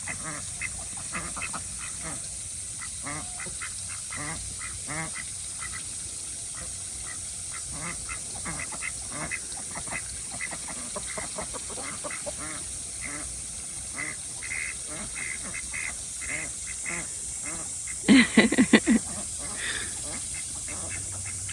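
A flock of domestic ducks, Khaki Campbells, keeping up a soft, busy chatter of short quacks. About three-quarters of the way through comes a brief burst of louder quacks.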